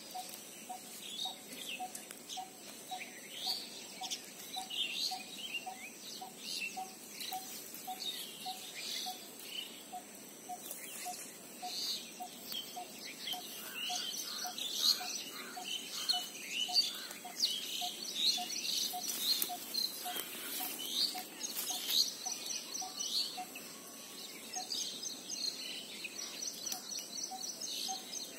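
Several birds chirping and trilling, busier in the second half, over a short low note repeated steadily about three times a second.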